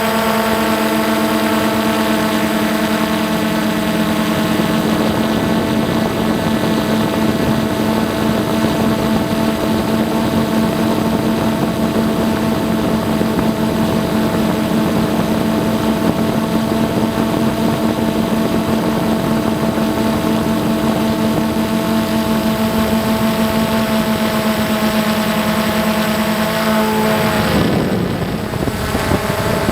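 An engine or motor running at a steady speed, its pitch falling sharply near the end as it slows.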